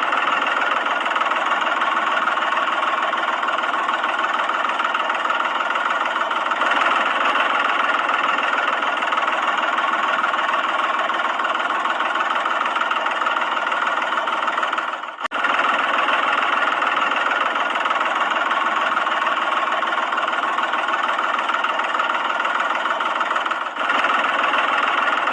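A small motor running steadily with an even, buzzing engine-like drone and little bass. The sound dips briefly about fifteen seconds in and again near the end.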